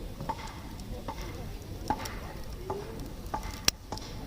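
Wood campfire crackling, with sharp pops at irregular moments, the loudest near the end.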